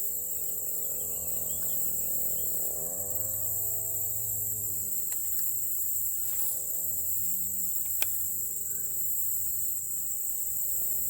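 Steady high-pitched chorus of insects, with a low humming tone that bends up and down in pitch for a couple of seconds near the middle and a single sharp click later on.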